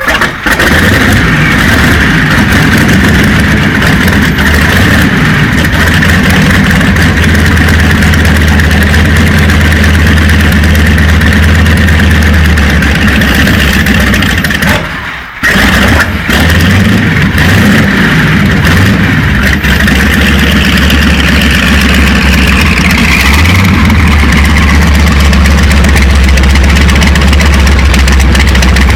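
Radial engine of a crop-dusting aircraft catching and running loud and steady, with a brief drop about halfway through before it runs on.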